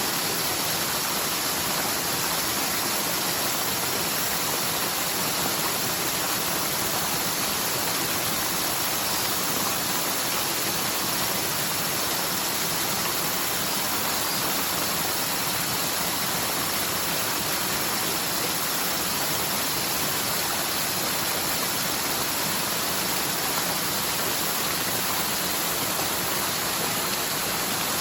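Forest stream swollen by typhoon rain, its water rushing steadily down the mountainside.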